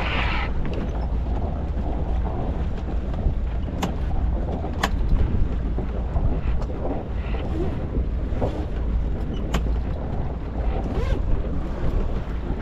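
Wind buffeting the microphone aboard a sailing yacht under way, with a steady low rush of wind and water and a few short sharp clicks and knocks from the boat's fittings.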